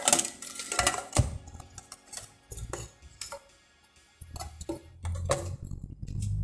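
Clicks and knocks of a car radio's plastic front panel and circuit board being handled against its metal chassis, loudest in a quick cluster at the start, then scattered taps.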